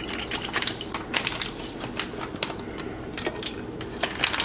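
Irregular clicks and taps of a spoon against cookware as sauce is scraped into a pot, over a steady low hum.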